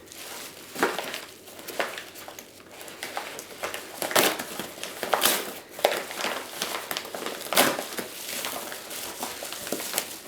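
Plastic and paper packaging being torn open and unwrapped by hand: continuous crinkling and rustling with sharp crackles and rips.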